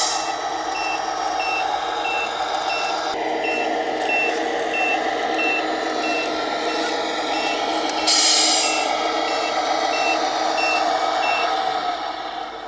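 Scale sound unit of a Tamiya Scania 770S RC truck playing a simulated truck engine running, with a reversing beeper sounding in a steady even rhythm while the truck backs up. A loud hiss of air-brake release comes about eight seconds in, and the beeping stops near the end.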